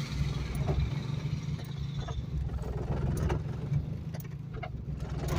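Geo Metro's engine idling steadily, with a few faint clicks.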